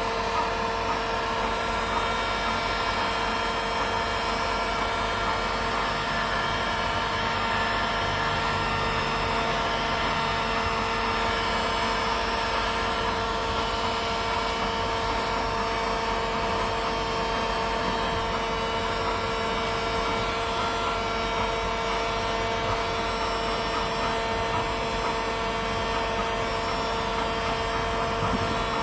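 Small electric power tool's motor running steadily without pause, a constant whine with no change in speed, used in welding a crack in a plastic water tank.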